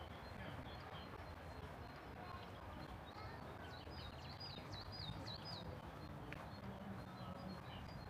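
A small bird sings a quick run of about seven high chirps a few seconds in, over a steady low outdoor background noise.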